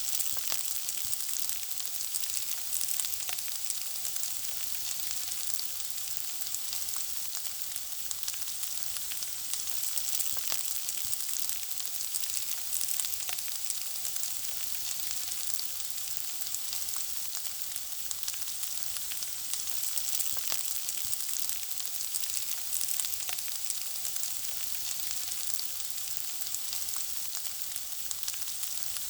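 Food frying in a pan: a steady sizzle thick with small crackles and pops.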